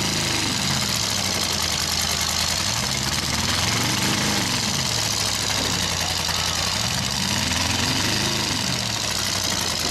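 Demolition derby truck engines running, one revving up and falling back about three times, about every four seconds, as a trapped truck tries to break loose.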